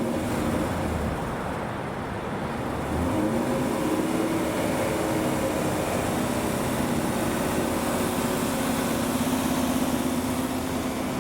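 Car engine running, its pitch climbing about three seconds in and then holding steady, as from a supercharged Corvette under way.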